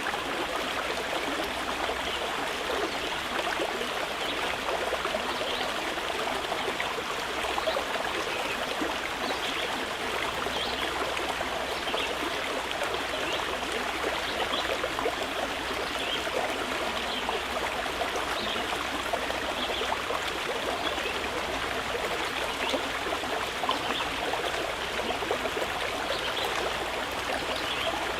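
Mountain river running steadily: an even, unbroken rush of water.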